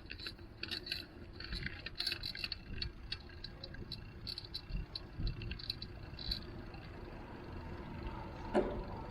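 Bicycle rattling and clicking as it is ridden, many small clicks through the first six seconds or so, over a low rumble.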